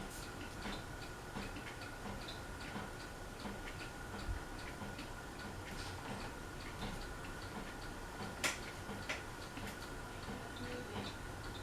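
Craftmade Phoenix ceiling fan running on low with a faint steady hum and a soft, regular ticking, about three ticks every two seconds, as the fan wobbles. One sharper click about eight and a half seconds in.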